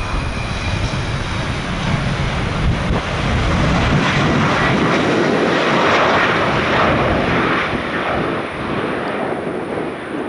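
Jet airliner passing, its engine noise swelling to its loudest midway and fading toward the end, with wind buffeting the microphone.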